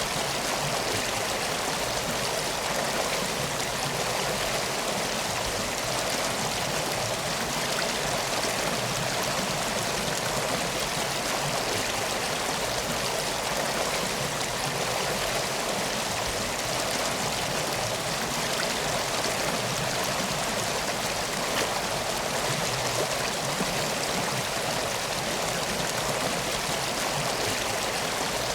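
Steady flowing river water: an even, unbroken rushing hiss.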